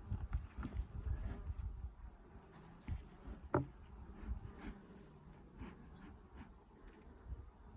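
Honey bees buzzing around an opened hive, with light knocks and clicks from handling the hive parts; one sharper click comes about three and a half seconds in.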